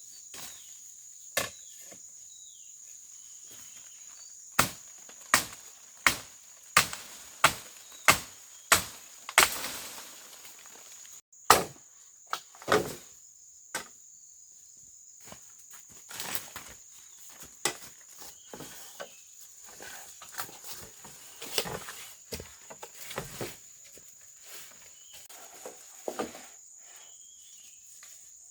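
Sharp chopping or knocking strikes: first a regular run of about seven, one every 0.7 seconds or so, then scattered knocks and rustling. A steady high drone of insects, like crickets, runs underneath.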